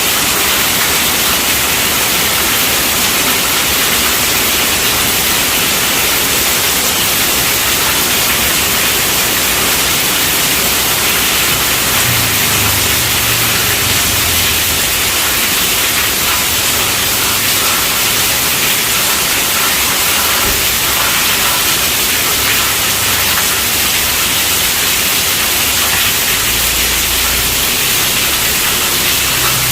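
Heavy rain drumming on a tent roof as a steady, dense hiss, with a faint low rumble now and then.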